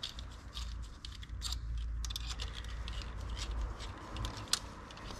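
Small metal engine parts being handled and fitted by hand: scattered light clicks and taps over a low rumble.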